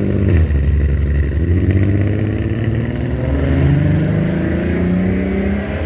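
A car engine revving hard, its pitch climbing through the second half.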